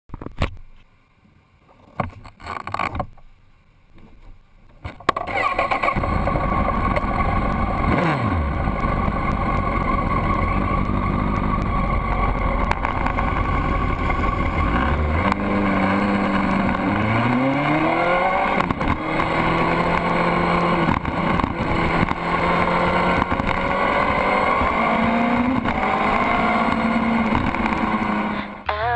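A Honda CBR1000RR's inline-four engine at speed with heavy wind noise, its pitch falling and climbing as it revs up through the gears and backs off. It comes in abruptly about five seconds in, after a few faint knocks.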